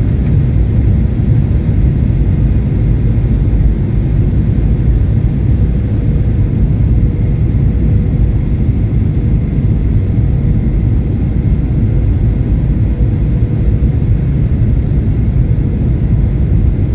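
Batik Air jet airliner's steady low rumble of engines and airflow, with a faint steady whine over it.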